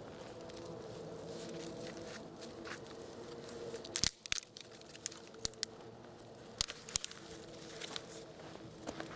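Wood fire crackling, with a handful of sharp snaps and pops, the loudest about four seconds in, over a faint steady hum.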